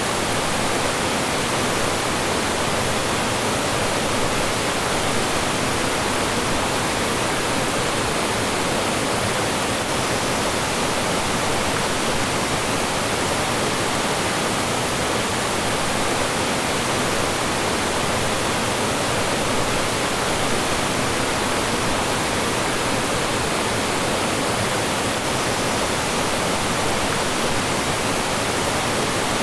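Mountain stream rushing over rocks with small falls, a steady, full wash of water.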